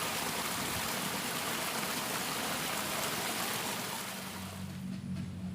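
A steady rushing hiss of water. It fades out near the end as a low steady hum comes in.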